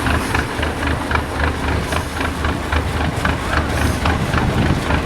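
Heavy truck's diesel engine idling steadily, a deep pulsing rumble with a light regular clatter of about three ticks a second.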